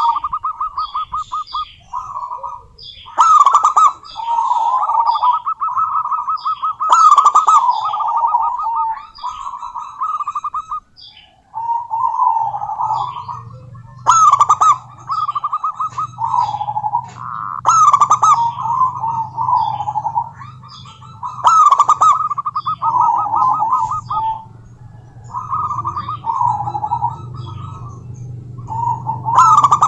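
Zebra doves cooing in phrases of rapid staccato notes, each phrase about one to two seconds long and repeated with short gaps, with sharp high chirps among them. A low steady hum comes in about twelve seconds in.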